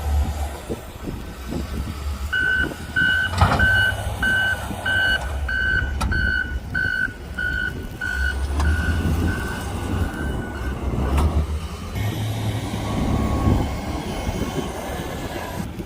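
A vehicle's reversing alarm beeping steadily, about three beeps every two seconds, starting a couple of seconds in and stopping about eleven seconds in. Wind buffets the microphone with a low rumble throughout.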